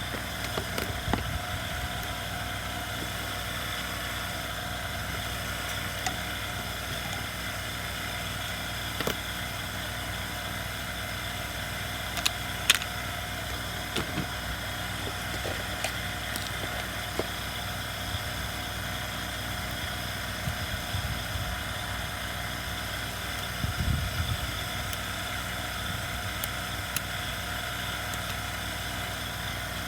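Steady mechanical hum in the background, with scattered light clicks and knocks of hand tools and small parts being handled on a chainsaw under repair; a sharp click about halfway through and a few low knocks near the end are the loudest.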